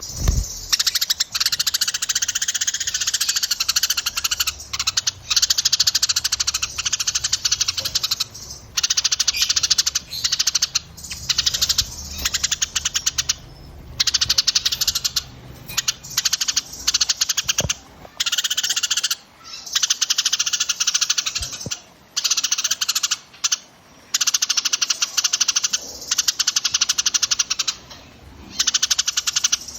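Small songbirds' dense, rapid chattering trills, high-pitched, coming in bouts of a few seconds with short breaks between them.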